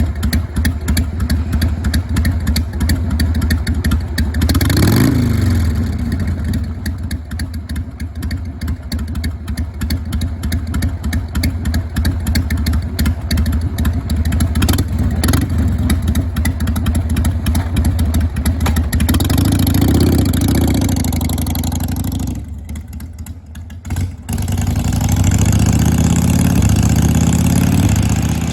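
Carbureted Harley-Davidson Sportster 883's air-cooled V-twin running with its uneven "potato-potato-potato" lope. It is revved briefly about five seconds in and again around twenty seconds, dips for a moment shortly after, then runs higher near the end.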